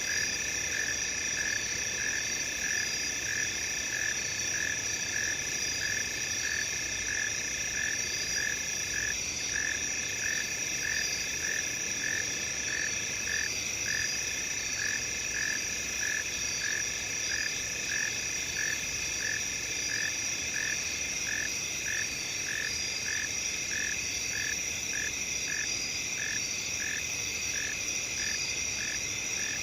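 Summer night field chorus: crickets trilling steadily and high, over a lower, regular chirp about twice a second that keeps on without a break.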